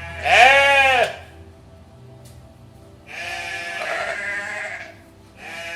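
Goats bleating: a loud call about a second long at the start, a longer wavering call in the middle, and a third beginning near the end.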